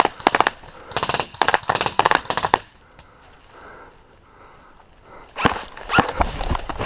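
Airsoft rifles firing in rapid bursts of sharp clicks for the first two and a half seconds. After a pause, more bursts start about five and a half seconds in.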